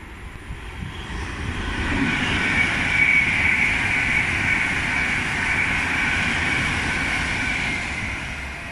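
Passenger train passing through the station at speed: a rushing rumble with a high steady whine, building over the first two seconds, loudest about three seconds in, then slowly easing off toward the end.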